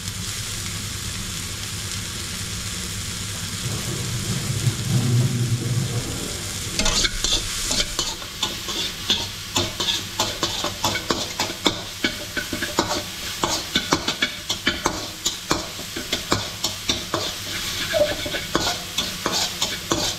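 Chopped tomato, onion and coriander sizzling in a wok with a steady hiss. From about seven seconds in, a metal fork scrapes and clacks against the pan again and again as the vegetables are stirred.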